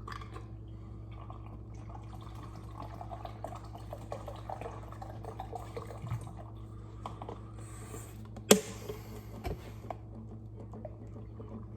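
Bottled water being poured into a hydration pack's reservoir. There is a sharp knock about eight and a half seconds in, and a lighter one a second later.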